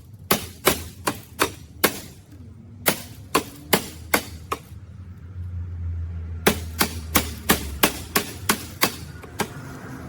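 Runs of sharp metal clicks or taps, about three a second, in three bursts with short pauses: hand-tool work on the trike's rear axle hardware. A low hum sits under the middle burst.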